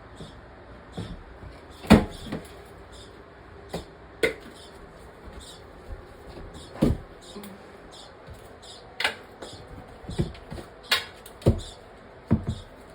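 Scattered sharp knocks and clicks, about a dozen at uneven gaps, the loudest about two seconds in, like objects being handled and bumped against a wall.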